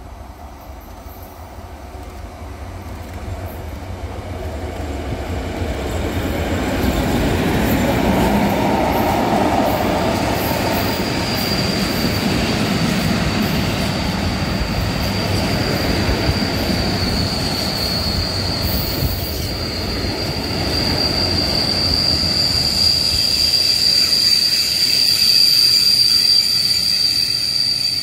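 Freight train of tank wagons, hauled by an ET22 electric locomotive, rolling past. It grows louder over the first several seconds into a steady rumble. From about eleven seconds in, a high steady wheel squeal rises over it and is strongest near the end.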